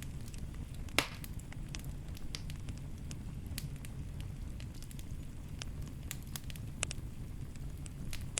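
Wood fire burning in a fireplace: a steady low rumble of the flames with scattered sharp crackles and pops, the loudest pop about a second in and another near the end.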